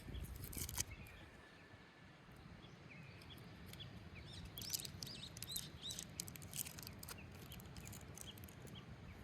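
Birds chirping with many short, quick calls over faint outdoor ambience, with a few light clicks, one near the start and a cluster about halfway.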